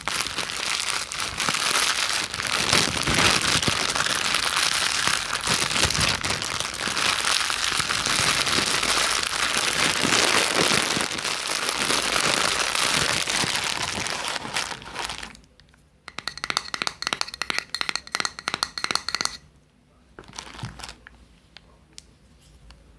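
Close-up ASMR crinkling and crackling of something being handled, dense and continuous for about fifteen seconds, then a few seconds of rapid ticking before it turns quiet with only scattered small sounds.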